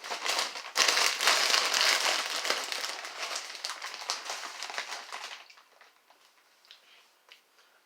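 Crisp bag crinkling and rustling loudly as it is handled, for about five seconds, then dying away to a few faint clicks.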